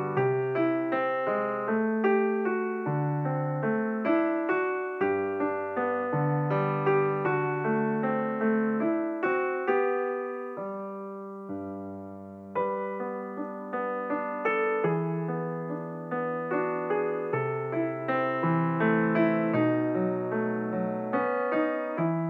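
Gentle background piano music: a slow melody of single struck notes over a bass line, briefly softer about ten seconds in.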